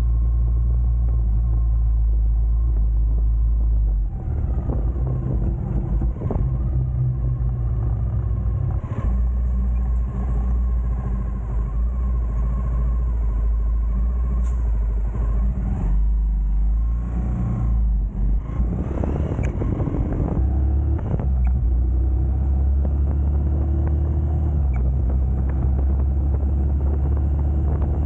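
Honda GB250 Clubman's single-cylinder four-stroke engine running under way, a steady low rumble whose note changes about four seconds in and again around the middle as the bike changes speed.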